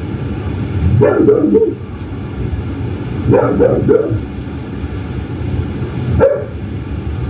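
A dog barking in three short bunches of a few barks each, startled by a loud click outside. It is heard through a phone sleep-recording app, over a steady low hum and hiss.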